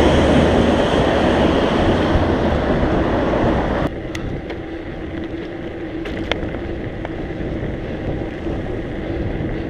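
Wind rushing over the microphone of a camera on a moving bicycle, loud for about four seconds, then dropping suddenly to quieter rolling noise with a faint hum and a few light clicks.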